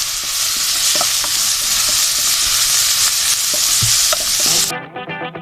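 Sliced chicken, garlic, green chilli and ginger sizzling loudly in hot oil in a wok as they are stir-fried, with a few spatula knocks against the pan. The sizzle cuts off suddenly near the end and guitar music takes over.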